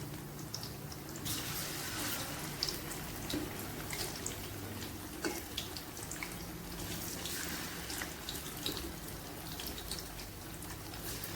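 Kitchen tap running into the sink, starting about a second in, with scattered light clicks and knocks of things being handled or washed under it.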